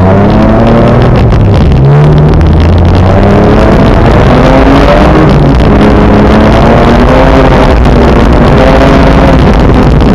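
Loud car engine pulling along: its revs rise and fall with gear changes in the first couple of seconds, then climb slowly for most of the rest, over steady road noise from the tyres on the snowy road.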